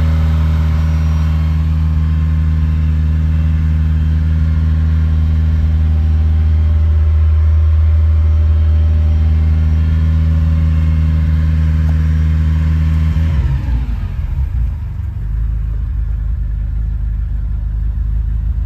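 1980 Ferrari 308 GTSi's 2.9-litre V8 running at a steady fast idle while warming up from a cold start. About 13 seconds in, the idle speed drops and settles into a lower, less even note: the engine has reached operating temperature and come off its warm-up fast idle.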